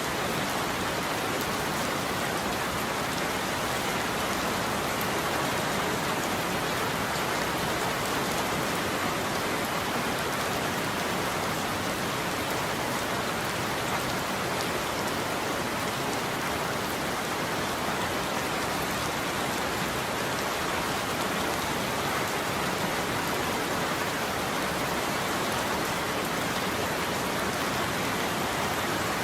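Steady heavy rain falling on a roof, an even patter with no thunder.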